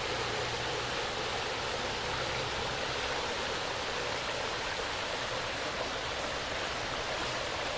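Steady, even rushing of water with no breaks or changes in level.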